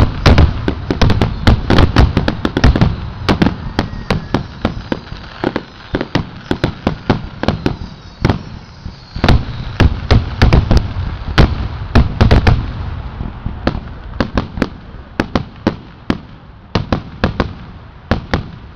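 A fireworks finale: many explosions going off in quick succession over a low rumble, densest in the first two-thirds and thinning to scattered bangs near the end.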